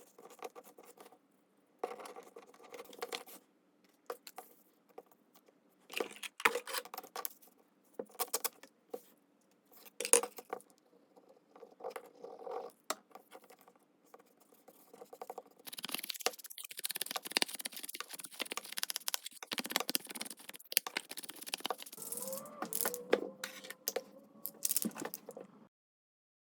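Paper and card being handled during journal crafting: irregular bursts of rustling and sliding with light taps, then a longer stretch of continuous rubbing in the second half that stops suddenly about a second before the end.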